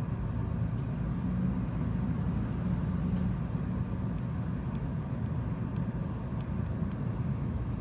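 Steady low hum with a few faint, light clicks through it.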